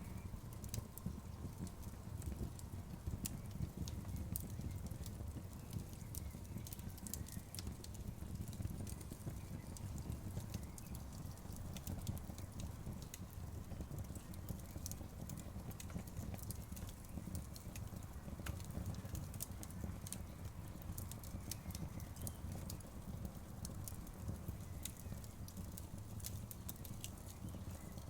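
Outdoor wood fire crackling: frequent sharp pops and snaps, irregular and unbroken, over a steady low rumble.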